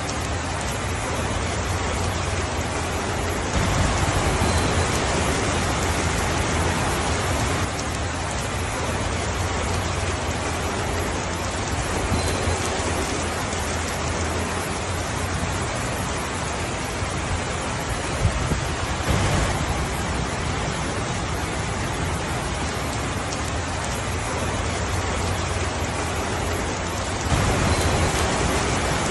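Steady rainfall, a dense even hiss of falling rain, swelling louder for a few seconds about four seconds in and again near the end.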